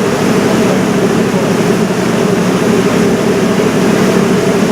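River cruise boat under way: a steady engine drone with a constant rushing noise of water and air.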